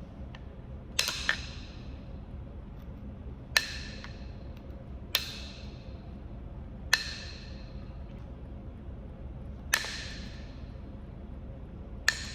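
Kentucky hornstone being knapped: seven sharp ringing strikes of a striker on the stone, a quick double strike about a second in, then single blows every second and a half to three seconds.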